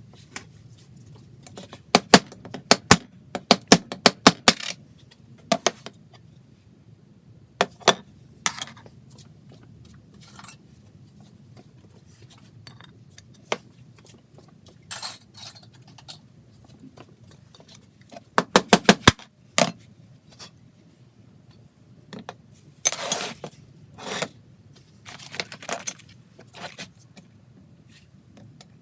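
Metal tools and engine parts clinking and tapping on a workbench, in scattered sharp clicks with a few quick runs of taps and short scrapes.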